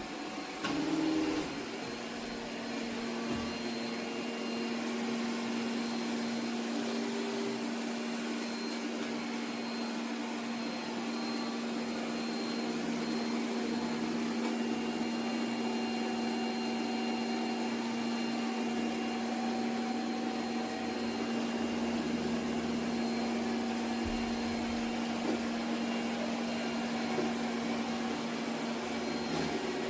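ECOVACS Deebot T50 Omni robot vacuum running with a steady motor hum.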